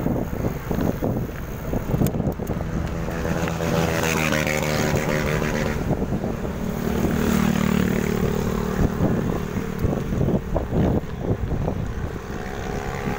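Road traffic passing during a bicycle ride: a motor vehicle's engine climbs in pitch about four seconds in, then runs steadily for a few seconds before fading. Wind on the microphone and road noise continue throughout.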